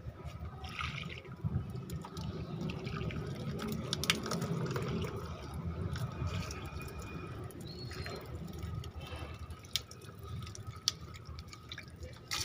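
Water being poured onto potted plants, splashing and dripping steadily, with scattered light clicks.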